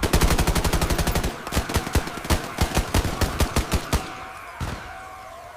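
Automatic gunfire: a fast continuous burst for about a second and a half, then a slower run of single shots that stops about four seconds in. A faint wavering tone follows.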